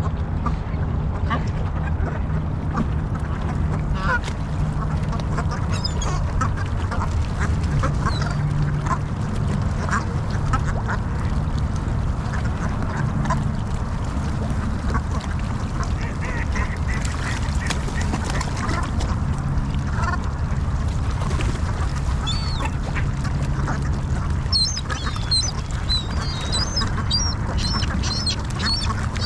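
A large flock of waterfowl calling constantly at open water on a partly frozen lake. The calls sit over a steady low rumble, and thin high squeaky calls join near the end.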